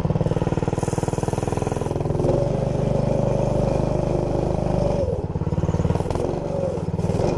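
Small 212 cc single-cylinder engine on a minibike running near idle through an aftermarket exhaust: a steady, even putter whose speed rises slightly and dips a couple of times.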